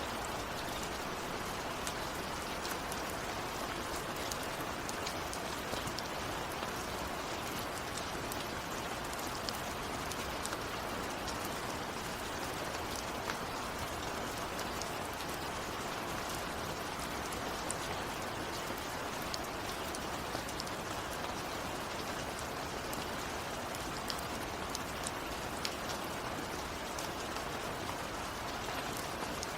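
Steady rain, even and unbroken, with individual close drops ticking sharply throughout.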